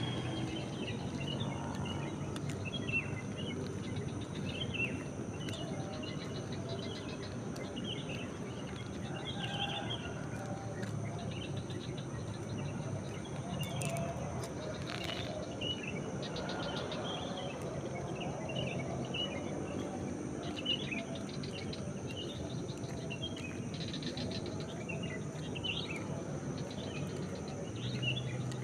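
Many short bird chirps and calls overlapping, over a steady high-pitched insect drone.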